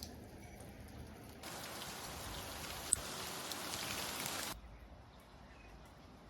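Hail and rain pattering on surfaces, a fine dense hiss of many small impacts. A much louder, denser stretch of patter begins and ends abruptly in the middle, with one sharp crack about three seconds in.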